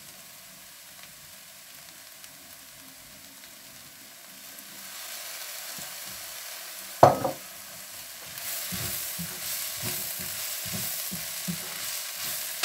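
Chicken and shredded vegetables frying in a pan. A faint sizzle at first grows louder after soy sauce goes into the hot pan, and then comes a strong sizzle with a wooden spatula stirring and scraping in quick strokes. There is one sharp knock about seven seconds in.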